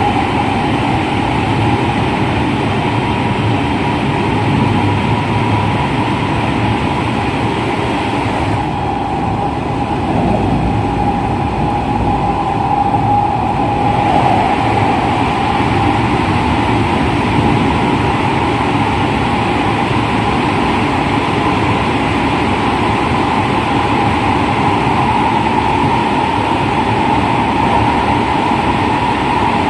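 Onboard running sound of a JR West 207 series electric multiple unit travelling at steady speed: continuous rumble of wheels on rail with a steady whine from its original, unreplaced traction motors. The hiss dulls for a few seconds about nine seconds in.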